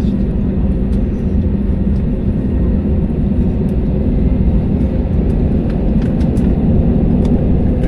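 Jet airliner cabin noise: a steady, loud roar of engines and airflow with a low hum running evenly through it.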